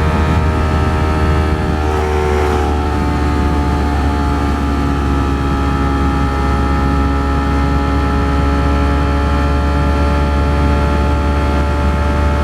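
Ducati Streetfighter V4S's V4 engine running at a steady cruise under heavy wind and road rumble. The engine note dips slightly about two seconds in, then climbs slowly.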